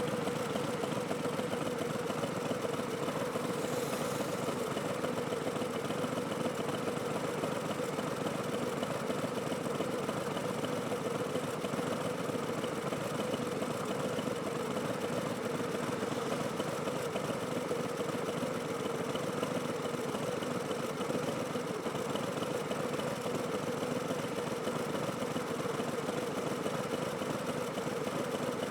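Milwaukee-Eight 107 V-twin of a 2019 Harley-Davidson Street Bob with Vance & Hines Twin Slash slip-on mufflers and an Arlen Ness Big Sucker air cleaner, running steadily at an even pitch without revving.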